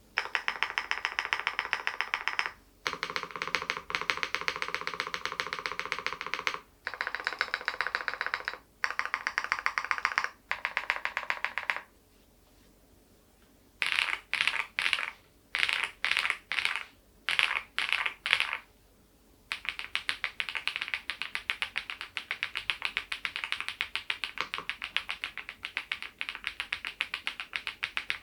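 Geekstar GKG87R tenkeyless mechanical keyboard with stock HMX Mongdol linear switches being typed on fast, in runs of rapid keystrokes a couple of seconds long with short pauses between. Midway comes a string of about eight short separate bursts, then steady continuous typing.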